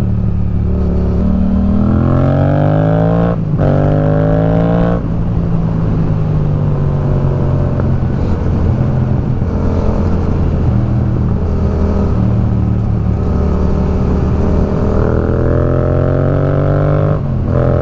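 Motorcycle engine heard from the rider's seat, accelerating through the gears: its pitch climbs and drops at quick upshifts about three and a half and five seconds in. It then runs steadier, slowly easing off, before climbing again and shifting once more near the end, over a low rush of wind and road noise.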